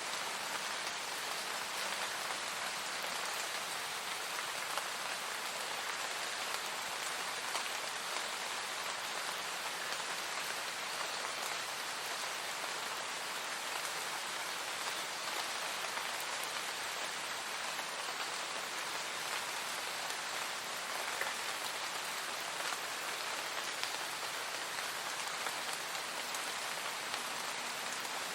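Steady, even rain falling and pattering on a surface, with faint individual drop ticks.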